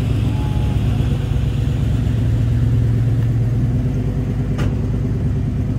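A car engine idling steadily, with one sharp click about four and a half seconds in.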